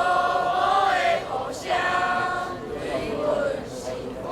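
A choir singing in Taiwanese Hokkien, holding long sustained phrases with short breaks between them, about a second and a half in and again near the end.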